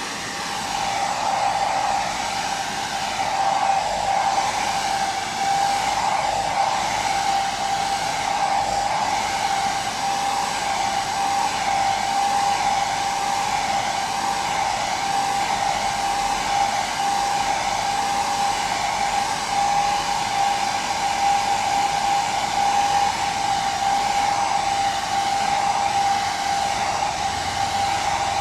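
Hair dryer running continuously: a steady rush of blown air with a constant whine from its motor and fan, unchanging throughout.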